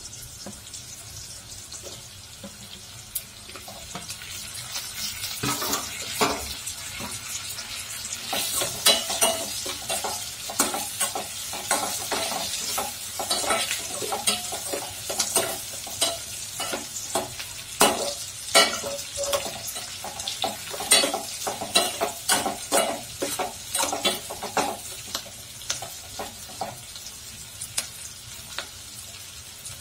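Okra, onions and green chillies sizzling in oil in a stainless steel pot while a metal slotted spoon stirs them, scraping and clinking against the pot. The sizzle is steady; the stirring clatter starts a few seconds in and stops shortly before the end.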